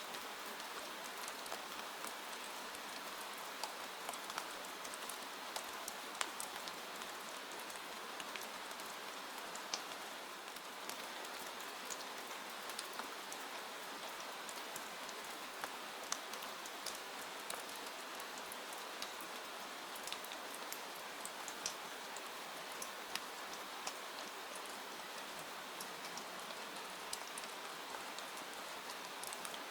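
Steady rain falling, a constant hiss with individual drops ticking irregularly on a surface.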